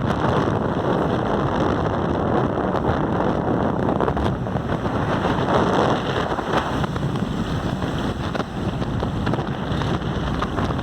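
Steady wind rushing over the microphone on a moving motorcycle, with road and engine noise under it.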